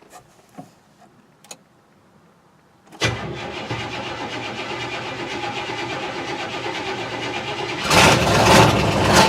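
1969 Buick Skylark's engine being cold-started after sitting six months: a few light clicks, then the starter cranks steadily for several seconds while the carburettor's fuel bowls refill, and near the end the engine catches and runs louder. It starts without the gas pedal being pumped.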